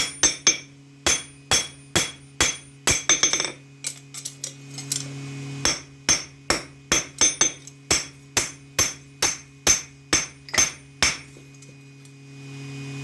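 Hammer striking metal on an anvil while forging a knife: sharp ringing blows about two a second, with a short lull a few seconds in, and stopping near the end. A steady low hum runs underneath.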